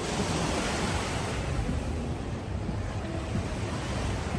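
Ocean surf washing on the beach, a steady rushing that swells in the first second or so, with wind rumbling on the microphone.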